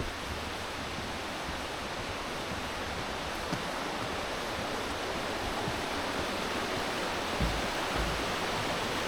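Steady rush of a rainforest waterfall, growing slightly louder through the stretch, with a couple of low thuds near the end.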